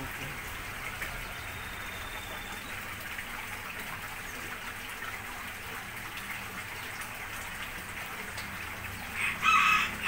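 Steady background noise, then one loud, short bird call near the end.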